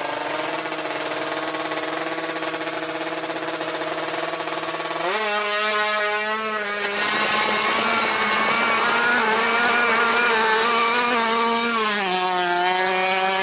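Drag-racing motorcycle engines held at high, steady revs. The pitch steps up about five seconds in and drops back near the end. From about seven seconds a loud hiss and a second, wavering engine tone join in.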